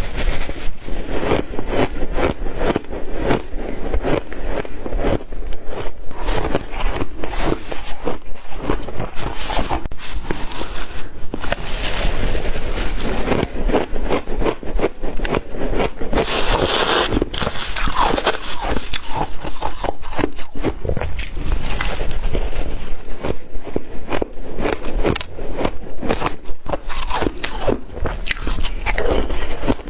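A person biting and chewing white ice close to the microphone: a dense, continuous run of sharp crunches and cracks as the ice is crushed between the teeth.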